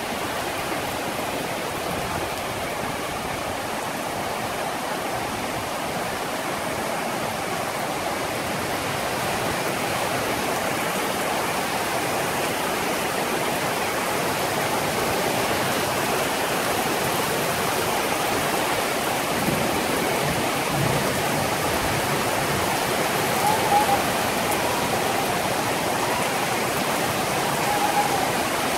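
A steady afternoon downpour hissing evenly on trees and rooftops, growing gradually a little louder.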